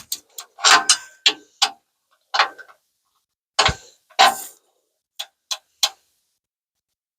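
Hand ratchet wrench clicking in short bursts as it is worked back and forth, tightening a bumper bolt. The clicks stop about six seconds in.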